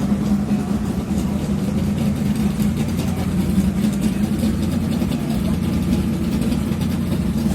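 Mud-racing truck engine running at a steady idle, an even low rumble with no revving.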